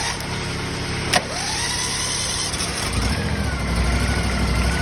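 A small Kubota diesel engine idles steadily, with two sharp clicks in the first second and a half. About three seconds in, a deeper, louder engine note joins and holds steady: the choked John Deere engine catching on a cold start.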